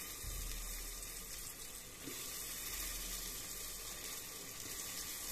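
Chopped tomatoes and onion-spice masala sizzling steadily in hot oil in a pressure cooker.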